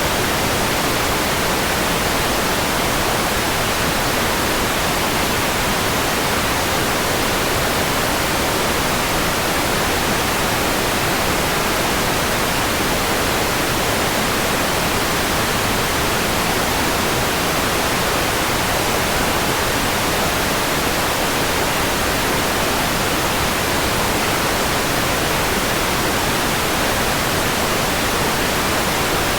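Steady synthetic white noise: an even hiss across all pitches at constant loudness, with no changes or events.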